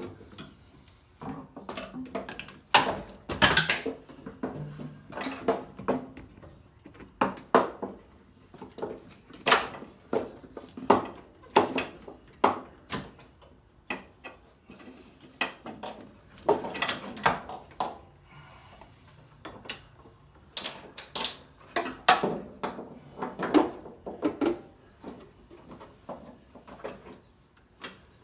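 Irregular clanks, taps and knocks of hand tools and metal parts being worked in a car's engine bay, one to three sharp hits a second with short quiet gaps.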